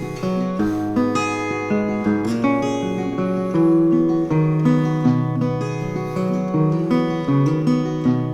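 Acoustic guitar playing a picked and strummed instrumental intro, changing chords every second or so.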